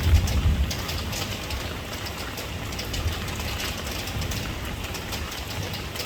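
Steady rain falling, with many small drop hits over a constant low rumble that swells briefly at the start.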